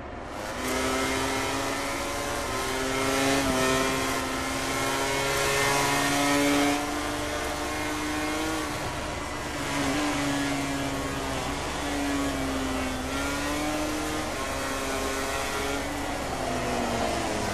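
MotoGP racing motorcycles' four-stroke four-cylinder engines at high revs. The pitch holds high, dips and climbs with gear changes, and falls off gradually a couple of times near the end as the bikes slow for corners.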